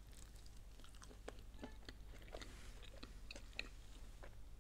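Close-up chewing of a bite of quesadilla: faint, irregular small clicks and crunches of the mouth working the food, over a steady low hum.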